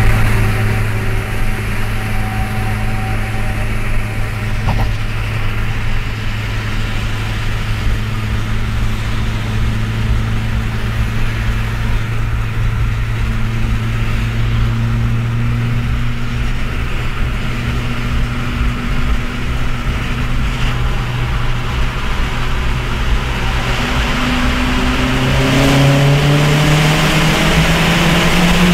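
Opel Astra OPC's turbocharged 2.0-litre four-cylinder (Z20LEH) through a 3-inch Friedrich exhaust, heard in a tunnel. It holds a steady drone at constant revs, then the pitch climbs as it accelerates near the end.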